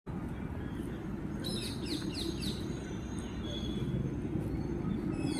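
A songbird singing one quick phrase of about five falling high notes, about a second and a half in, over a steady low rumble.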